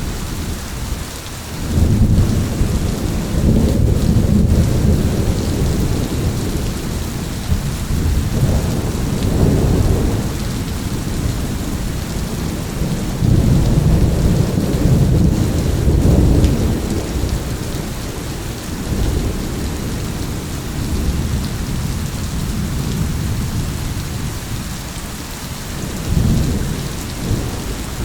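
Steady rain falling, with rolling thunder rumbling several times: a long rumble about two seconds in, further swells near the middle and a shorter one near the end.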